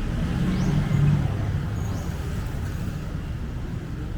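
City road traffic: motor vehicle engines rumble steadily, loudest about a second in as a vehicle goes by, then ease off slightly.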